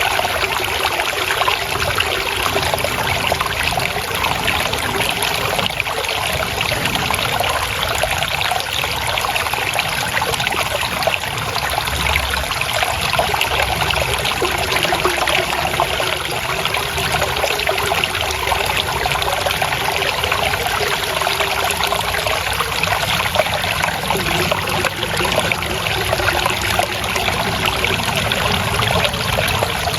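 Water flowing and trickling steadily, a continuous babbling of a small stream over stones.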